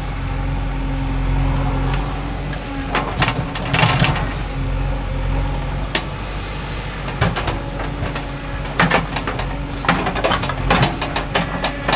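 Diesel engine running steadily, with scattered clanks and knocks from about three seconds in.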